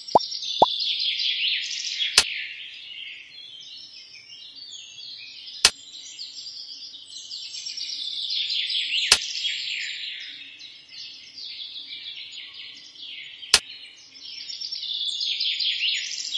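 Many small birds chirping and twittering together in a dense chorus that swells and fades, with a sharp click about every three to four seconds.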